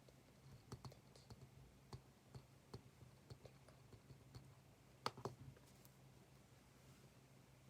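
Faint, irregular small clicks and taps of desk work, with one sharper click about five seconds in, over a low steady hum.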